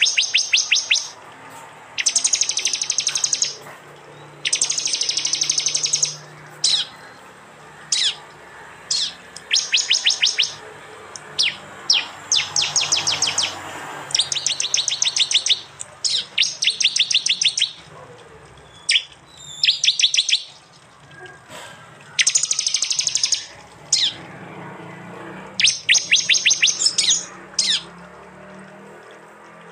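Prenjak (prinia) calls in loud rapid-fire 'tembakan' runs: fast series of sharp, high chattering notes, each run lasting about a second, repeated with short gaps and a few single notes in between.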